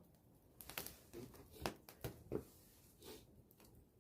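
Faint, irregular crackling and popping of a wood bonfire: about a dozen sharp snaps at uneven intervals.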